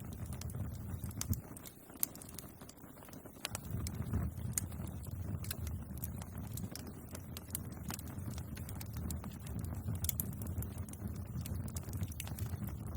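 Wood fire crackling: irregular sharp pops and snaps over a steady low rumble of the flames, which dips briefly about two seconds in.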